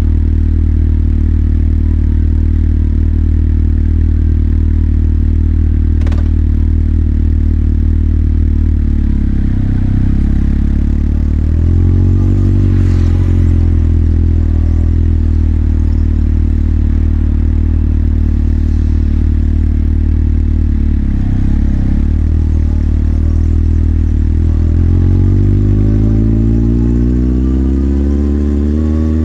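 Motorcycle engine idling steadily, with a brief rise and fall in revs about twelve seconds in. Near the end it pulls away, the engine pitch climbing steadily as it accelerates.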